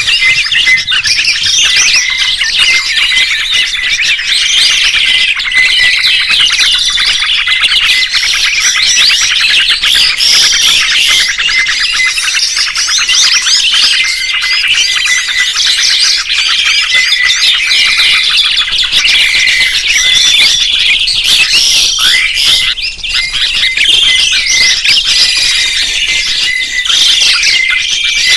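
Songbirds chirping and trilling in a dense, continuous chorus of many overlapping rapid high calls.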